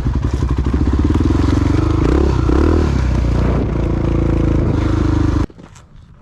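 Single-cylinder four-stroke dual-sport motorcycle engine running under way, its pitch rising and falling with the throttle. It cuts off abruptly about five and a half seconds in, leaving a much quieter stretch with faint clicks.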